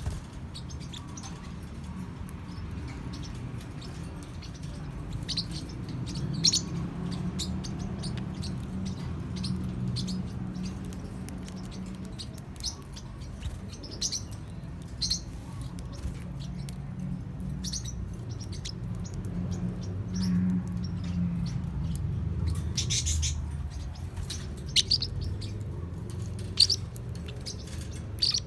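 Young Forpus parrotlets giving short, high chirps now and then, more often near the end, over a steady low hum.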